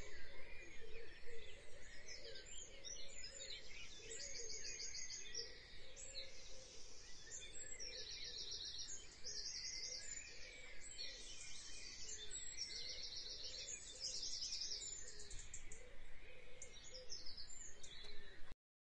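Birds chirping and singing in short, rapid trilled phrases repeated every second or so over a faint steady hiss; the sound cuts off suddenly near the end.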